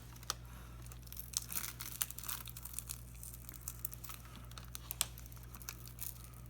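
Scattered small crackles, crinkles and clicks of shattered, packing-taped touchscreen glass being peeled up off its adhesive. A low steady hum runs underneath.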